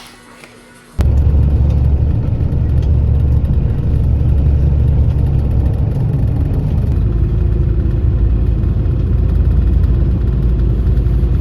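A loud, steady low rumble that starts abruptly about a second in and cuts off at the end.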